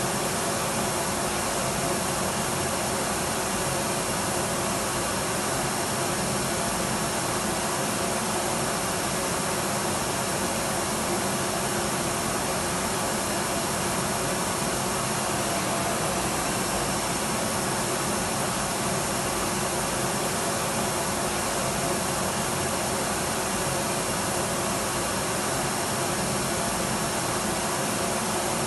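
Electric vacuum cleaner running steadily: an even, unchanging whoosh with a few faint steady hums in it.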